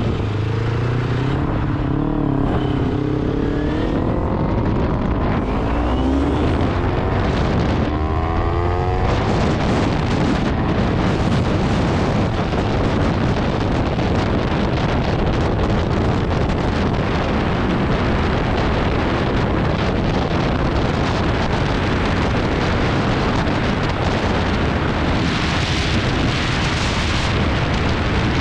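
Motorcycle riding at speed. For the first several seconds the engine's pitch rises and falls through gear changes, with a quick rising rev near nine seconds in. After that a steady rush of wind and road noise takes over.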